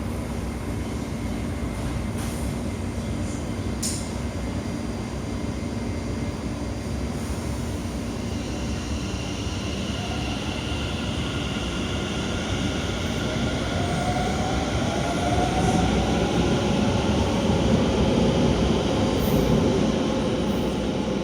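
Metro train running, with steady rumble and hiss. From about halfway through, a motor whine rises in pitch and the sound grows louder as the train picks up speed.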